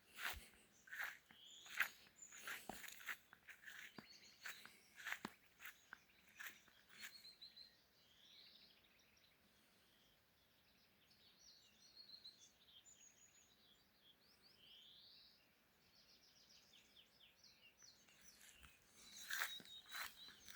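Small birds chirping and trilling, faint and high. Crunching footsteps over dry ground fill the first seven seconds or so and come back near the end.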